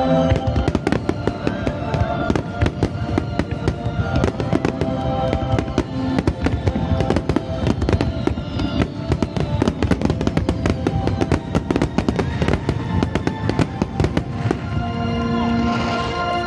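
A dense barrage of fireworks going off, many bangs and crackles a second, thinning out near the end, with music playing alongside.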